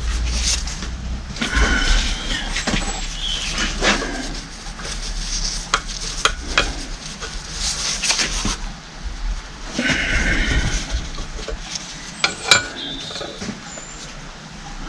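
Metal spanners and pump parts clinking, knocking and scraping on a bench, with short rasping bursts, as the bolts on a hydraulic pump body are worked tight.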